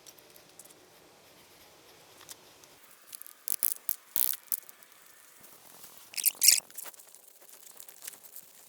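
Small kindling crackling and snapping as a campfire catches from burning tinder, in two short clusters of sharp cracks about three and a half and six seconds in.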